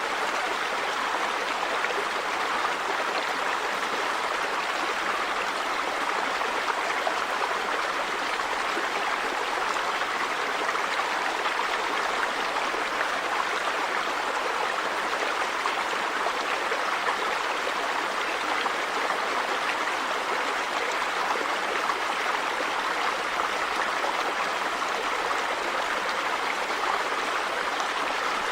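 River water flowing over rocks: a steady, even rush that does not change.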